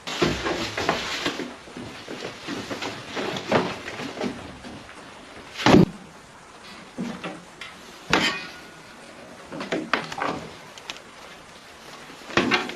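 Irregular knocks, thuds and clatters of things being handled, with a sharp knock a little before the middle and another a couple of seconds later.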